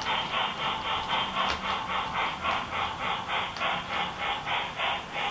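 HO-scale model freight train running on the track, its wheels clicking in an even rhythm of about four to five clicks a second as the cars roll over the rail joints.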